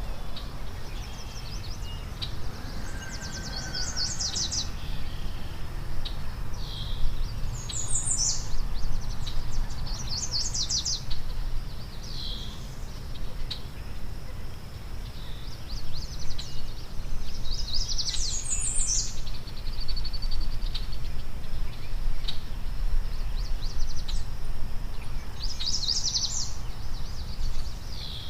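A songbird repeating a short, high trilled phrase every few seconds, over a steady low rumble.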